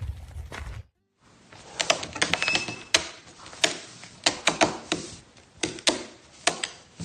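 A low rumble that cuts off about a second in, then a run of sharp, irregular clicks and knocks, several a second.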